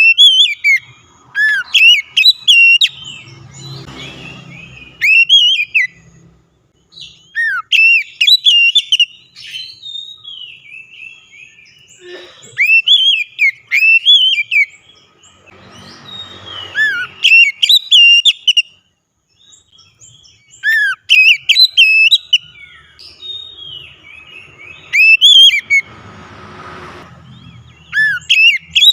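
Oriental magpie-robin (kacer) singing loudly: bursts of rich, varied whistled phrases with quick slurs and trills, repeated every few seconds with short pauses between.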